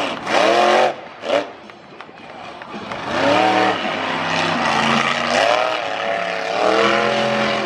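Monster truck engine revving in several bursts, its pitch rising and falling with each, with a quieter stretch between the first burst and the next.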